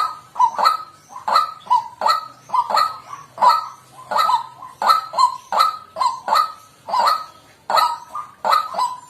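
White-breasted waterhen giving its loud, honking 'kwak' call over and over, about one to two calls a second.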